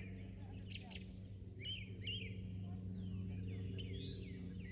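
Several birds chirping with short repeated calls, and a high, even trill lasting about two seconds in the middle, over a steady low hum.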